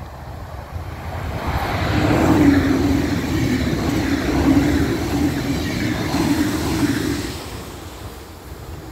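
Red regional passenger train passing close by at speed. It swells up about a second in, runs loud with a steady hum under the rushing wheel noise for about five seconds, then fades away near the end.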